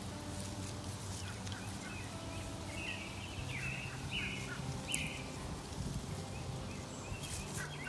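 A bird gives a string of short calls outdoors, four of them close together a few seconds in, over a steady low background hum. Faint ticks and rustles come from plastic bird netting being worked over the tree's branches.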